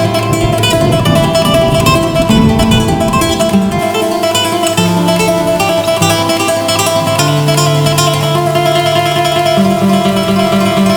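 Solo instrumental music, most like plucked acoustic guitar: a dense stream of quickly repeated notes over held bass notes that shift every second or two.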